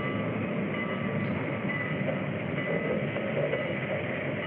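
Steady rumbling noise of a passenger train at a station platform, with no clear beat.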